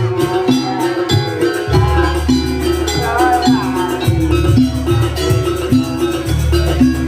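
Live Banyuwangi gamelan music accompanying a barong/jaranan dance, with ringing pitched percussion over a steady drum beat.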